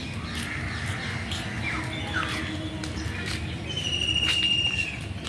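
Birds calling: scattered short squawks and chirps, with a few short falling calls about two seconds in and one long, steady high note about four seconds in, over a constant low background rumble.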